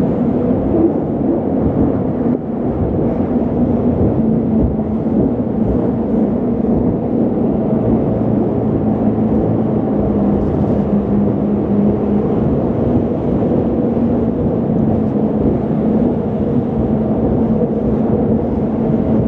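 Jet boat under way: its engine running as a steady drone, over a loud rush of water and wind.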